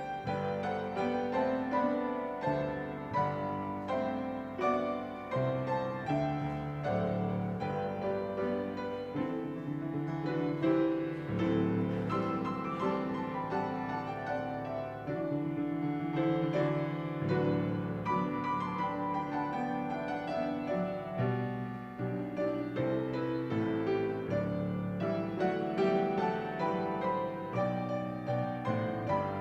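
Piano playing a slow, gentle piece: chords and melody notes struck and left to fade.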